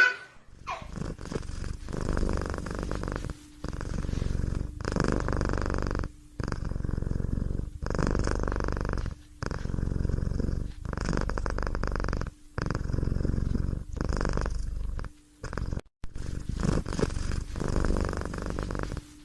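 Close, steady purring that comes in repeated breaths, each lasting about a second and a half with a brief pause between, about a dozen in all.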